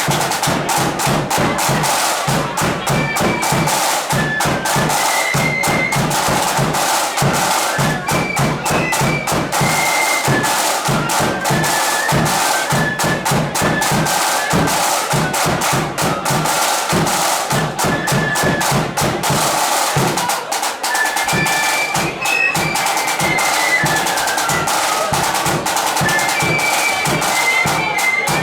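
Flute band playing: flutes carry a stepping melody over rapid snare drumming and bass drum beats.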